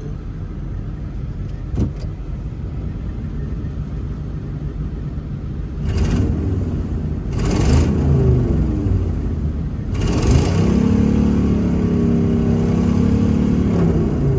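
Old farm truck's engine running while driving, steady at first, then given gas about six seconds in and again from about ten seconds, the engine note climbing and then holding high before easing off near the end.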